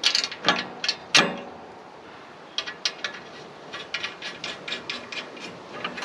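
Metal hardware and tools knocking sharply a few times as exhaust parts are handled, then a run of quick, evenly spaced ratcheting clicks as a fastener is turned.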